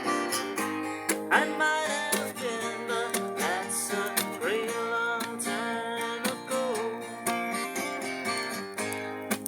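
Acoustic guitar strummed in a song, with a melody line over it that slides between notes.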